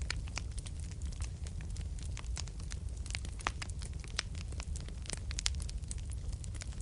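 Fireplace fire crackling, with frequent irregular sharp pops and snaps over a steady low rumble of the burning.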